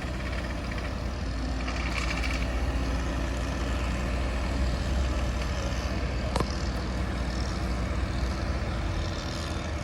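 Heavy diesel engine running steadily, with a single sharp knock about six and a half seconds in.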